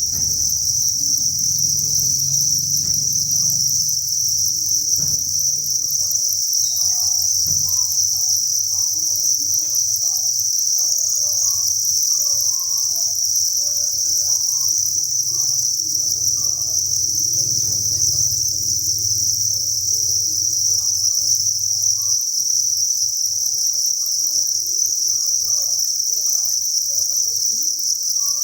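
Thousands of farmed crickets chirping together in a dense, steady, high-pitched chorus. A faint low hum sits underneath and drops away about three-quarters of the way through.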